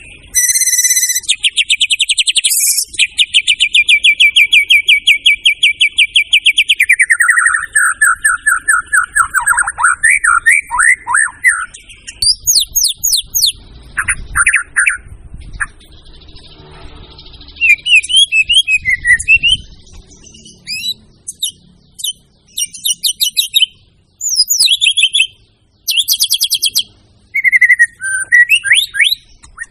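White-rumped shama (murai batu) singing loudly. It opens with a fast run of repeated notes held for about six seconds, drops into a lower trill that breaks into sweeping notes, then goes on with varied short whistled phrases and rising and falling sweeps separated by brief pauses.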